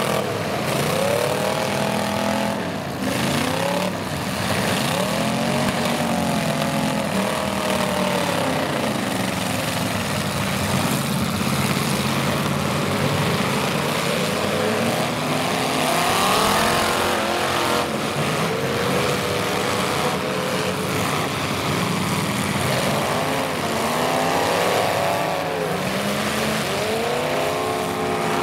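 Several demolition derby cars' engines revving, their pitch repeatedly climbing and dropping as the cars accelerate and back off, several engines overlapping.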